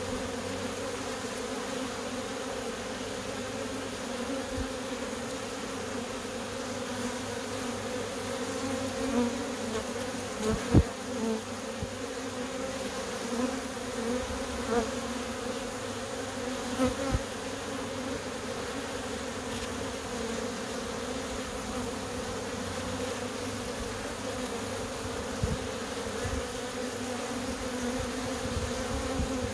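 Honey bees at a busy hive entrance, many drones among them, making a big steady hum. A few brief louder buzzes stand out near the middle.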